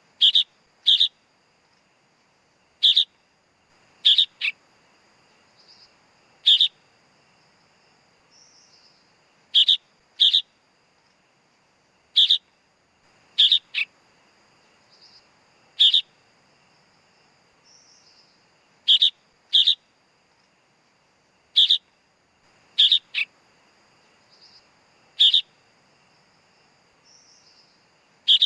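Sooty-headed bulbul chick calling: short, high, sharp chirps, single or in quick pairs, repeated every one to three seconds. A faint, thin, steady high tone with small rising slurs runs underneath.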